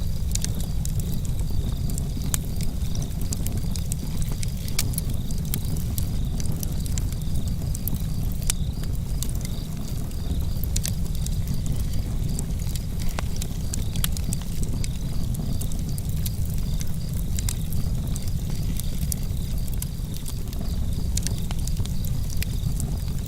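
Wood campfire crackling, with frequent irregular sharp snaps and pops over a steady low rumble.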